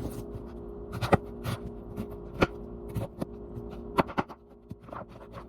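Knife chopping a pineapple, irregularly spaced knocks and scraping strokes, about a dozen in a few seconds.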